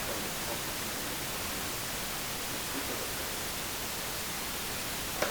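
Steady, even hiss of background noise, with a sharp click right at the end.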